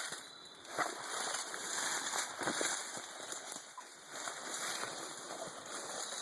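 Footsteps rustling and crunching unevenly through dry leaf litter, with insects trilling steadily behind.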